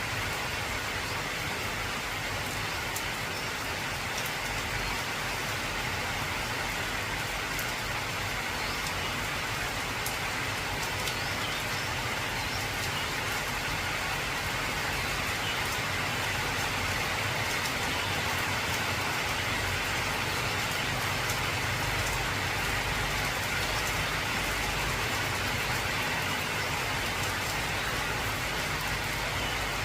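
Heavy rain drumming steadily on an old corrugated zinc roof, a dense even patter of drops.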